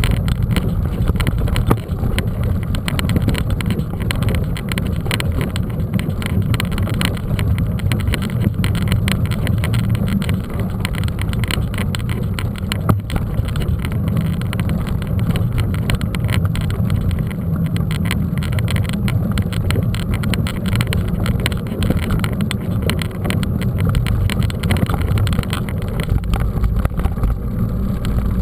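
Mountain bike ride: a steady low wind rumble on the microphone, with continuous fine rattling and clatter from riding over a rough surface.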